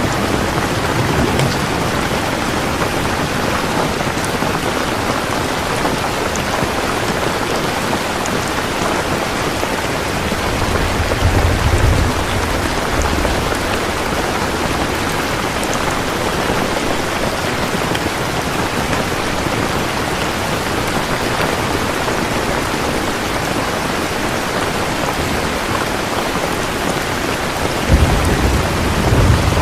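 Steady rain falling on a surface, an even hiss with scattered drops. Twice, about a third of the way in and again near the end, a low rumble of distant thunder swells under the rain.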